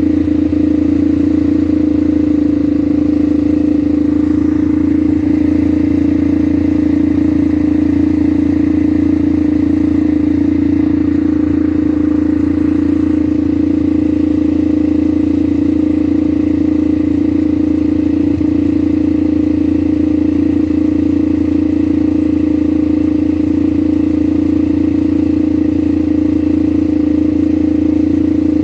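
ATV engine running at a steady speed, a constant drone with no changes in pitch.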